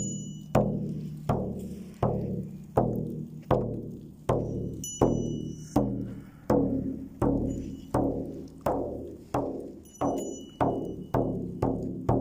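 Shaman's frame drum beaten in a steady, slow rhythm, about three strikes every two seconds, each low beat ringing and dying away. The beat quickens slightly near the end.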